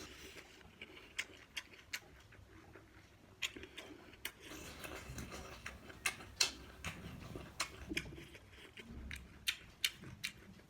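Close-miked eating sounds: irregular sharp clicks and crisp crunches, the chewing and mouth sounds of someone eating raw vegetables and fish.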